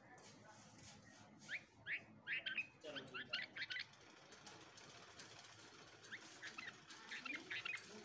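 Bulbul nestlings begging at the nest while a parent feeds them: two runs of short, thin, rising cheeps, the first about a second and a half in and the second about six seconds in.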